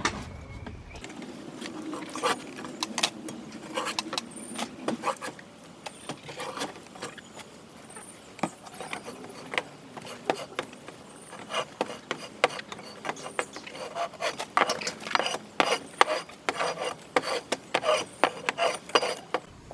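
Irregular scraping and knocking of a hand tool, as chicken nest boxes are scraped and cleaned out.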